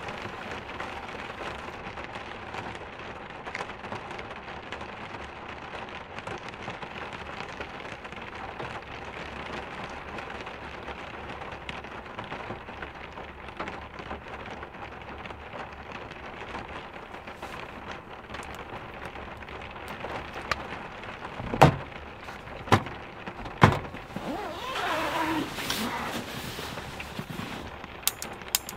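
Steady rain pattering on a Toyota Land Cruiser's roof and windows, heard from inside the vehicle. About two-thirds of the way in come three sharp knocks, the loudest sounds, then a brief rustle, and a run of quick clicks near the end.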